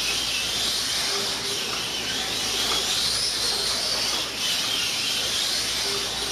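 1/24 scale slot cars racing on the track: their small electric motors whine high, rising and falling in pitch over a steady hiss.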